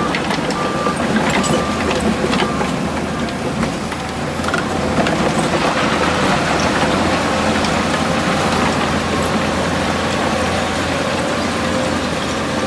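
Heavy diesel earthmoving machinery running steadily, with metallic clanks in the first few seconds. A truck's reversing beeps end about a second in. From about five seconds in, a louder rushing noise joins the engine.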